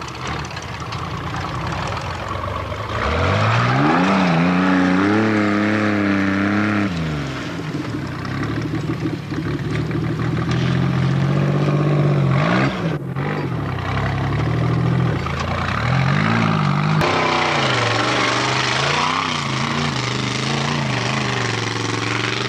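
Formula Offroad cars' engines revving hard, the pitch repeatedly rising and falling as they climb a steep sandy hill, with the sound changing abruptly a few times between runs.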